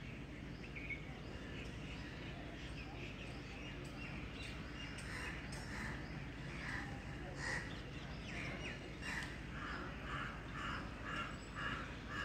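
Birds calling outdoors in short repeated calls, sparse at first and about two a second near the end, over a steady low background rumble.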